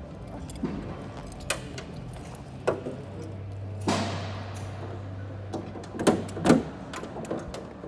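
A series of sharp knocks and clicks, the loudest a close pair near the end, over a low steady hum in the middle.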